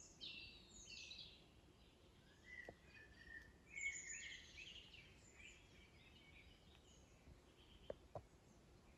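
Songbirds singing faintly in short warbling phrases, mostly in the first half and loudest about four seconds in, with a couple of faint clicks near the end.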